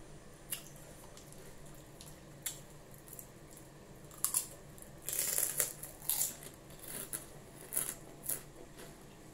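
Crispy chicharon (fried pork rinds) being eaten close to the microphone. A few soft mouth clicks while chewing, then from about four seconds in a run of loud crisp crunches as a fresh piece is bitten and chewed.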